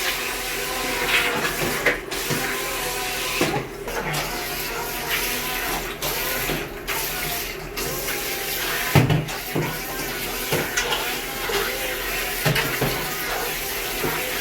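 Syma Q9 RC speedboat's twin electric motors whirring and its propellers churning water in a bathtub, with occasional sharp knocks.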